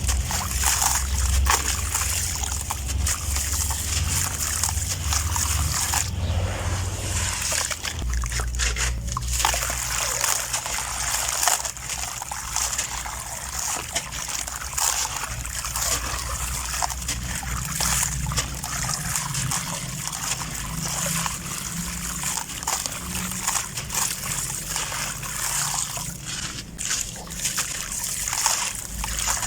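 Wet, grainy sand-cement shapes being crumbled in water: steady sloshing and trickling, thick with small crunchy crackles of breaking grains.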